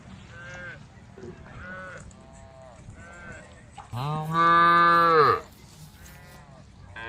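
Cows mooing: a few faint calls, then one loud long moo about four seconds in that drops in pitch as it ends.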